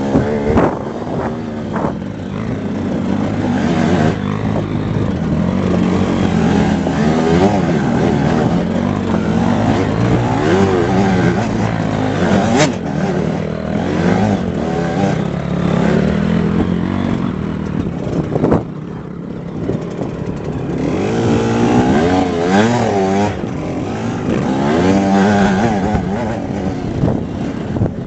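Off-road motorcycle engine revving up and down as it labours along the trail, its pitch rising and falling over and over. There are a few sharp knocks, the clearest at about 12 and 18 seconds in.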